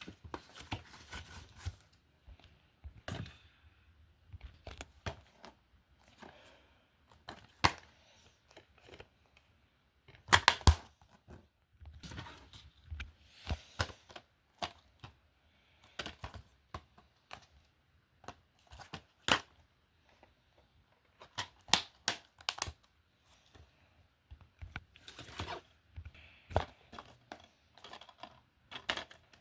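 DVD and Blu-ray cases being handled: irregular plastic clicks and knocks with rustling in between, the loudest knocks about three, ten and nineteen seconds in.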